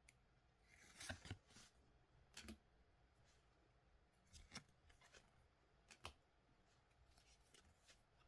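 Faint handling of collectible trading cards and their packaging: a few soft rustles and light clicks, the loudest cluster about a second in.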